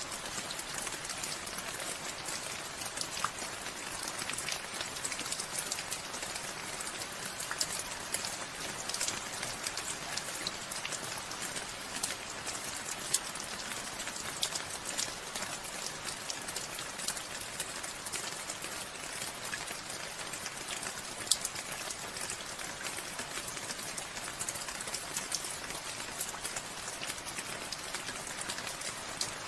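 Steady rainfall with many distinct drops pattering on surfaces, a continuous hiss dotted with close individual drop hits, a few of them louder.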